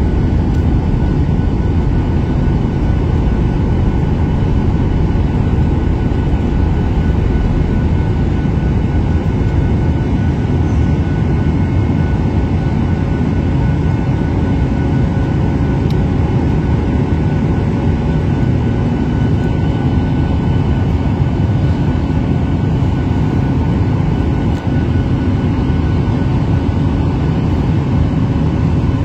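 Steady engine and air noise inside an airliner's cabin, a deep even rumble with a few faint steady tones above it.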